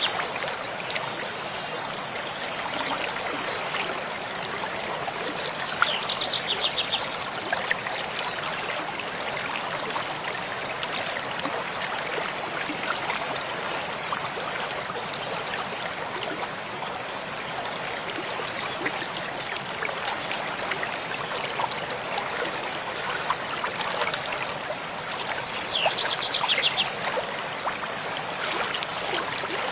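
Mountain stream flowing steadily over rocks, with short bursts of bird song, quick repeated high notes, about six seconds in and again near the end.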